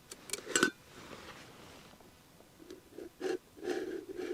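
Sharp clinks and knocks of camp cookware being handled: a quick cluster in the first second, then a few more knocks toward the end, with a steady low hum-like sound starting under the last of them.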